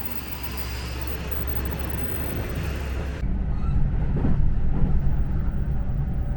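Steady low rumble of a moving train. The hiss above it drops away abruptly about three seconds in, leaving the rumble.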